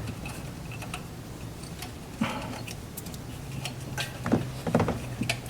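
Scattered light clicks and taps of hands handling a wiring cable and car parts, over a steady low hum.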